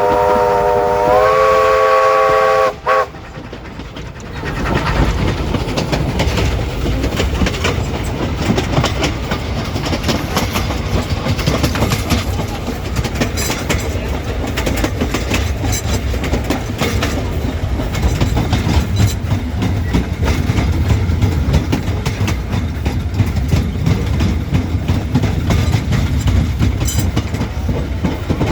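A vintage steam locomotive's whistle sounds a chord of several notes, stepping up in pitch about a second in and cutting off about three seconds in. After a brief lull the train runs on steadily, rumbling with rapid clatter from the wheels over the rails.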